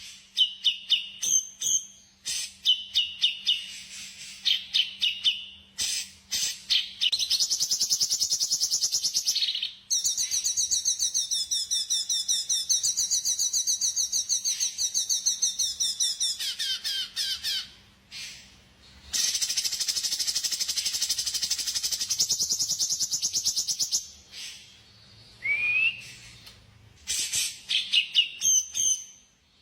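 A songbird singing: short sharp chirp phrases, then long, very fast trills lasting several seconds each, then more chirps. A faint steady hum runs under the first half.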